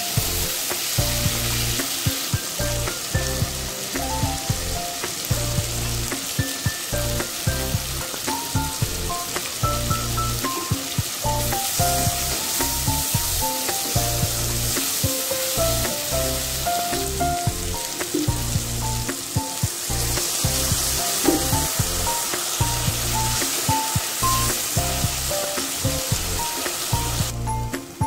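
Chopped vegetables sizzling and frying in oil in a non-stick pot as they are stirred with a wooden spoon, a steady hiss that cuts off abruptly near the end. Background music with a melody and a regular beat plays throughout.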